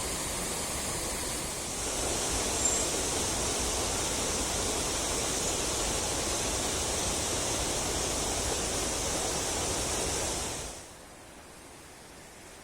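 Steady rush of a falling mountain stream. About eleven seconds in it drops suddenly to a much fainter hiss.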